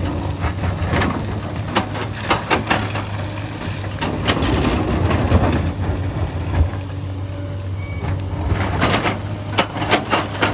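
Hyundai excavator's diesel engine running steadily while the bucket works rock and soil, with many irregular knocks, clacks and scrapes of stones and dirt.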